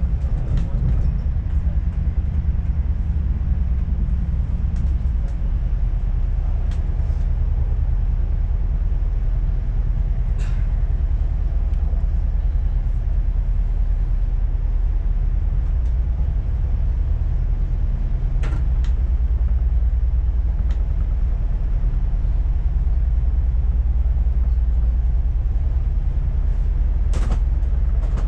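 Steady low rumble of a moving passenger train heard from inside the carriage, with a few brief clicks scattered through it.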